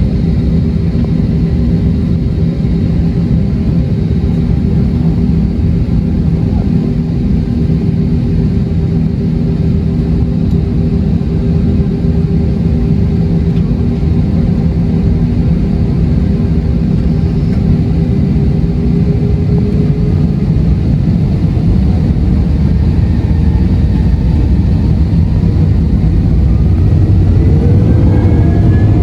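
Airbus A321-231 cabin noise from its IAE V2500 engines: a steady low rumble with a hum that fades out about two-thirds of the way through. Near the end a rising whine sets in and the noise grows louder.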